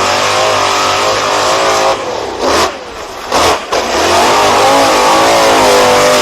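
BIGFOOT monster truck's engine revving hard, its pitch wavering with the throttle. It drops off about two seconds in, surges twice in short bursts, then holds at high revs.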